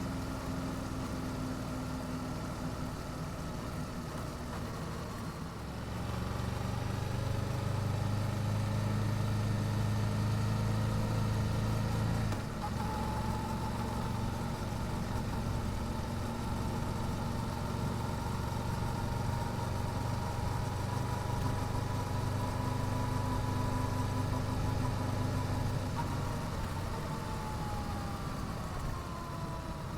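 Yamaha YZF-R7's parallel-twin engine running through its stock exhaust while riding. It pulls harder about six seconds in, breaks off briefly near twelve seconds, then drops in pitch over the last few seconds as the bike slows.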